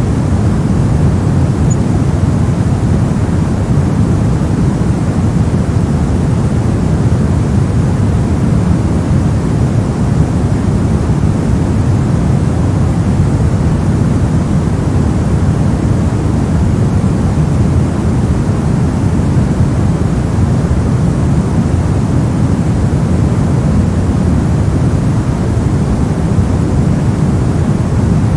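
Continuous generated sleep-aid white noise, steady and unchanging, weighted towards the low end so it sounds like a deep, even rush.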